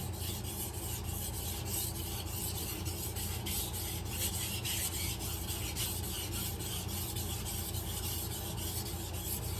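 Kitchen knife blade stroked back and forth across a soaked whetstone in repeated sharpening passes, a steady rhythmic scraping.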